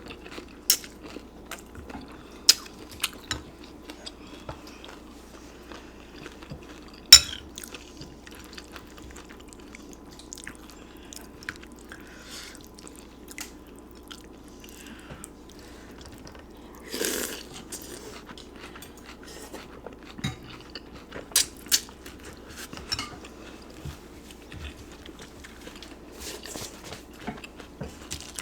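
Close-up eating of pozole soup with tostadas: soft chewing and crunching, punctuated by sharp clicks of a spoon against the bowl. The loudest click comes about seven seconds in.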